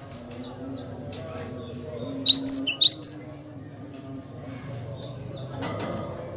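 Cinereous tit (glatik batu) singing: a quick run of four loud, sharp whistled notes about two seconds in, with fainter chirps around it, over a low steady hum.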